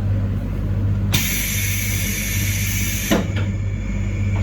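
Train running, with a steady low hum. About a second in, a loud high-pitched hiss cuts in suddenly, drops away with a short falling tone two seconds later, and carries on more faintly until near the end.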